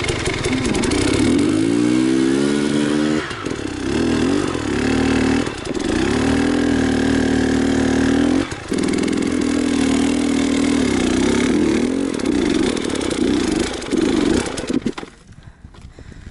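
Enduro motorcycle engine revved hard again and again. The pitch climbs steeply in the first few seconds, then rises and drops in repeated bursts, and the sound falls away sharply near the end.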